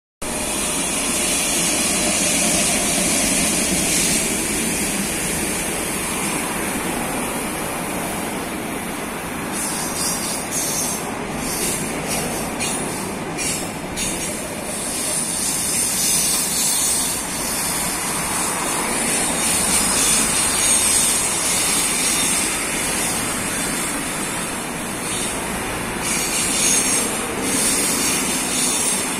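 A passenger train passing behind a 2ES4K electric locomotive: first the locomotive, then the passenger coaches roll by with a steady rumble of wheels on the rails.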